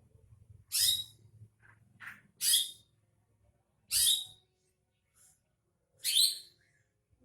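Green leafbird (cucak ijo) giving a series of short, sharp, high calls, about one every second and a half, with fainter notes between them.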